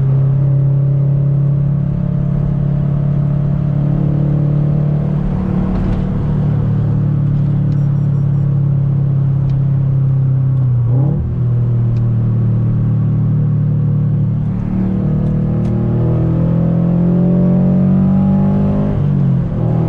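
Scion FR-S's FA20 flat-four running through unequal-length headers and an ISR exhaust, cruising at steady revs. About eleven seconds in the pitch dips briefly and recovers, as with a gear change. In the last few seconds the revs climb steadily, then drop sharply near the end.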